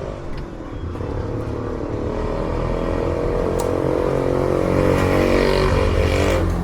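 A motor vehicle's engine passing close by on the road: it grows steadily louder and then falls away sharply near the end as it goes past.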